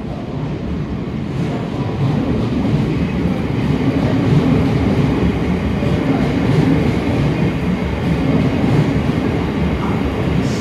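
Electric multiple-unit passenger train moving along a station platform. Its wheels and running gear give a steady rumble that builds over the first couple of seconds and then holds.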